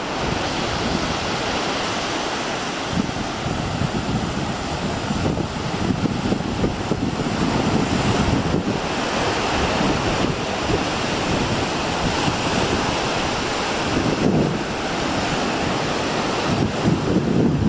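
Ocean surf breaking and washing on the beach, with wind rumbling on the microphone.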